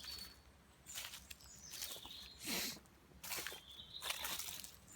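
Irregular rustling and crunching of a person moving about on woodland leaf litter and handling camp kit, a handful of separate scuffs with the loudest about halfway through.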